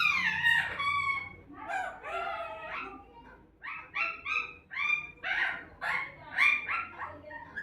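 Pet parrot calling: a few bending, pitched squawks, then a quick run of short, sharp notes in the second half.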